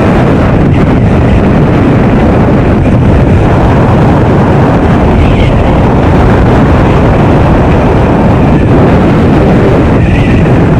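Honda XR650L's single-cylinder four-stroke engine running steadily while riding, loud, mixed with heavy wind noise on the microphone.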